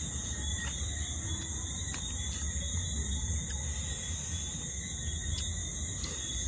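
Steady chirring of insects, cricket-like, in several unbroken high bands, over a constant low rumble.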